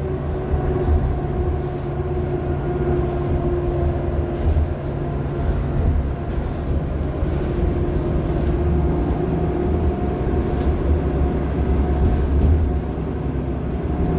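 2015 Nova LFS Artic hybrid bus, with a Cummins ISL9 diesel and an Allison H50 EP hybrid drive, running: a steady low rumble with a constant drivetrain hum. A faint high-pitched whine rises and then falls over the last few seconds.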